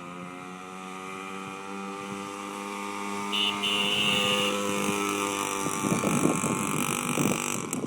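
Yamaha X2 pocket bike's small two-stroke engine running at a steady, part-throttle pitch, growing louder as the bike comes closer. In the last couple of seconds it turns rough and buffeted as it passes close by.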